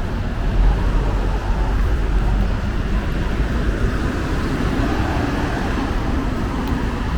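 Steady city street traffic: vehicles running past with a continuous low rumble.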